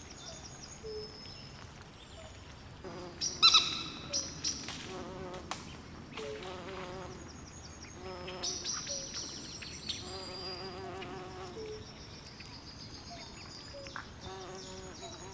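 Night swamp chorus of frogs and insects: frogs give short trilling calls again and again, and insects chirp high and thin. A louder, sharp call stands out about three and a half seconds in.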